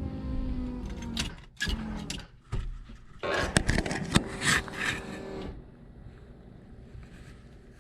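Electric whir with sharp clicks from a car that is not cranking: the fuel pump priming and a relay clicking as the key is turned, with no starter turning the engine. The whir and clicks stop about five and a half seconds in.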